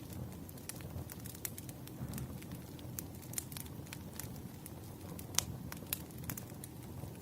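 Wood fire crackling: irregular sharp pops and snaps of burning firewood over a steady low rumble of the flames, with one louder pop about five and a half seconds in.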